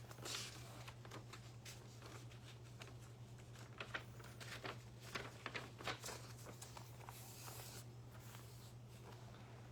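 Faint handling noises, scattered short clicks and brief rustling, over a steady low electrical hum.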